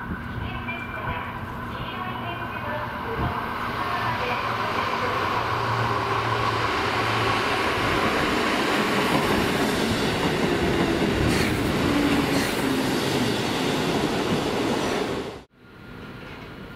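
Electric commuter train running along the track, its rail and wheel noise growing louder over several seconds, with a low whine falling in pitch as it passes. The sound breaks off abruptly near the end.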